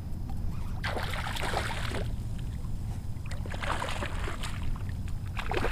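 Water splashing and sloshing in short washes as a hooked redfish thrashes in shallow water beside a kayak, over a steady low rumble.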